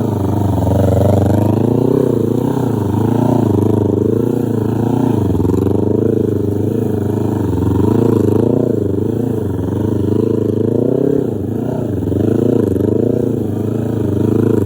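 Trail motorcycle engine revving up and down continuously, its pitch rising and falling about once a second, with a couple of deeper drops in revs.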